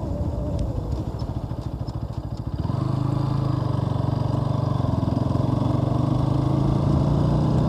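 Bajaj Pulsar NS200's single-cylinder engine heard from the bike while riding, ticking over with slow, uneven beats for the first few seconds. About three seconds in it picks up to a steady, louder, even running note under throttle.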